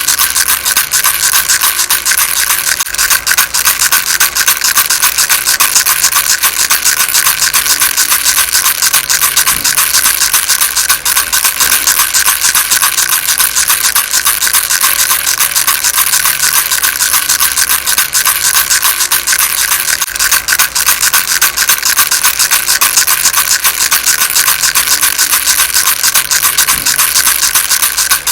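Baby rattle shaken continuously: a steady, dense rattling of small beads with no pauses, kept at an even level.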